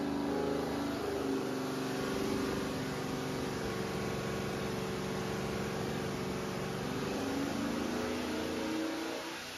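6.0L LQ4 LS V8 running on an engine dyno. Its pitch drops in the first second, holds steady, then climbs again near the end as the revs rise.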